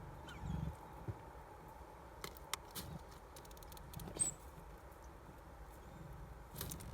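Scattered light clicks and taps with soft low thumps, and one brief high chirp from a small songbird about four seconds in.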